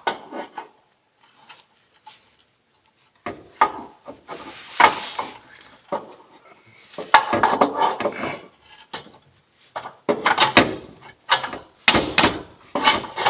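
Irregular clanks, rattles and scrapes of metal exhaust pipe sections and a gasket being handled and slid together, in several separate bursts with short pauses between.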